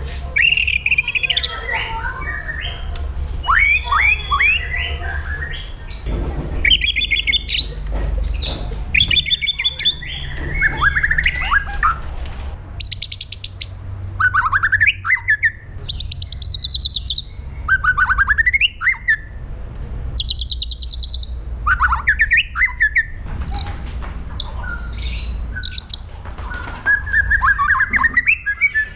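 White-rumped shama singing a varied song of sharp falling whistled notes, warbling phrases and rapid buzzy rattles, broken by short pauses, over a steady low rumble.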